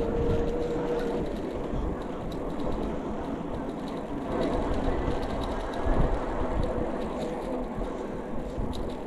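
An e-bike being ridden, heard from a camera mounted on it: a steady rumble with small rattles and clicks. A thin steady whine fades out about a second in and comes back faintly later.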